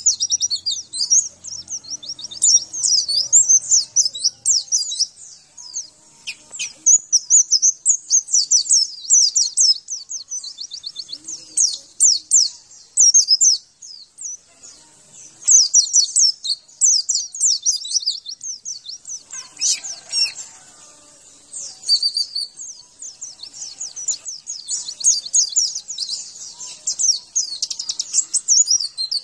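White-eye (pleci) song: rapid, high-pitched twittering phrases in bursts, broken by short pauses.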